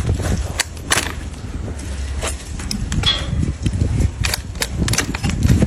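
Sharp, irregular cracks and snaps, a few a second, from trimming a donkey's hoof, over a low rumble. A brief high chirp sounds about halfway through.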